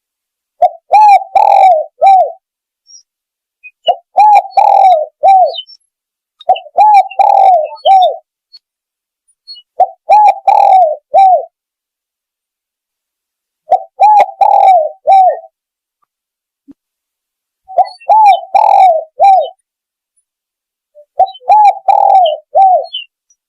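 Spotted dove (tekukur) cooing: a loud phrase of several quick, rounded coos, repeated seven times about every three to four seconds with silence between.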